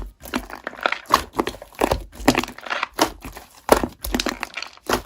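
Slime being pressed and squeezed by hand, making irregular crackling clicks and pops, a few a second.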